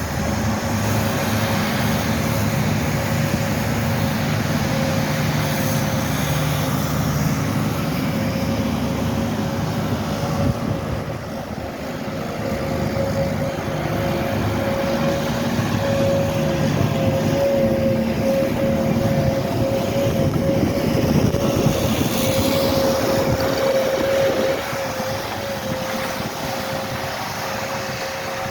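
Snow-clearing machinery at work: a heavy vehicle engine running steadily, with a steady whine over it.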